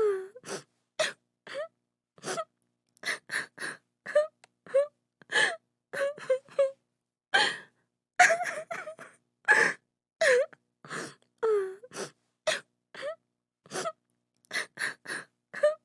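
A woman sobbing: short, broken cries and gasping breaths, about two a second, with silence between them.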